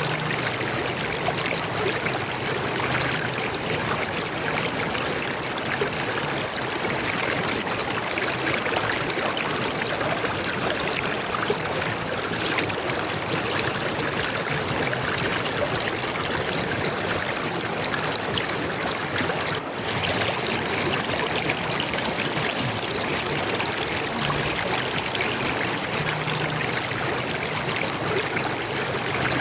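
Running water flowing steadily, like a stream, with a brief dropout about twenty seconds in.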